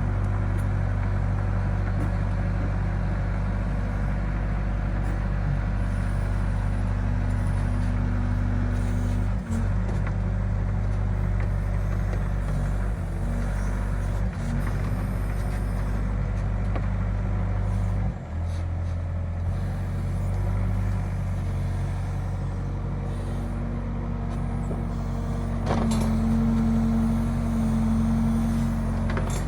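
Excavator's diesel engine running steadily, its note shifting about two-thirds of the way through and growing louder near the end.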